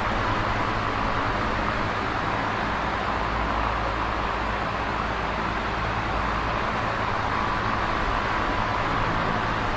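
Electric fan running steadily: an even rush of moving air with a low, constant motor hum beneath it.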